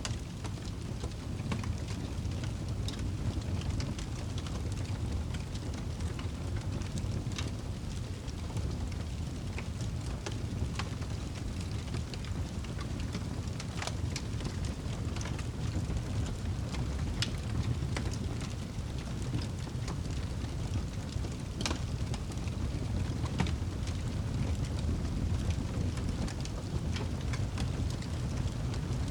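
Wood fire burning in a fireplace: logs crackling with frequent sharp pops over a steady low rumble of the flames.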